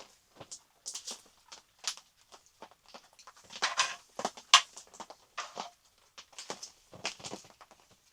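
Close, irregular rustling and clicking, with a louder stretch of crackling rustle about four seconds in.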